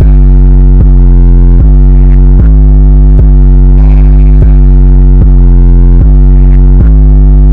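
Loud, distorted electronic music loop built on a heavy synth bass, a sustained chord re-struck a little more than once a second in a steady repeating pattern.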